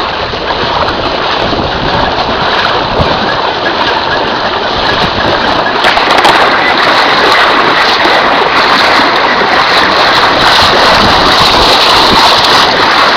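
Steady rushing and sloshing of floodwater, growing louder about six seconds in.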